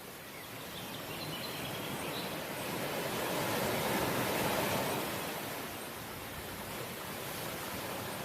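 Ocean waves washing onto the shore: a steady rush of surf that swells to a peak about four seconds in and then eases back.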